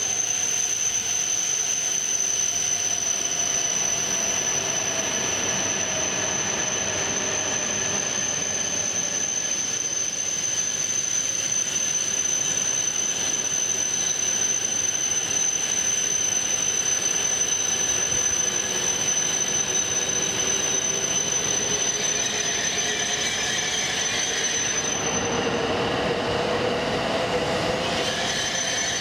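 Coupled E5/E6-series Shinkansen train running slowly into the platform, a steady rolling rumble with a high thin whine over it. The whine cuts out about four seconds before the end while lower tones rise.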